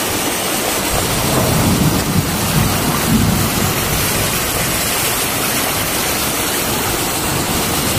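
Heavy rain pouring down onto a flooded street, with floodwater running through it: a steady, loud hiss of falling and flowing water.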